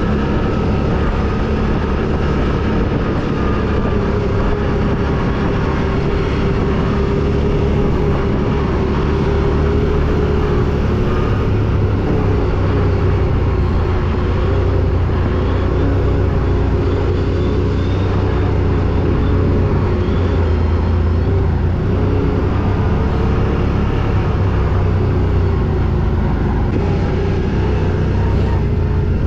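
ATV engine running steadily under load, a continuous low drone with no revving.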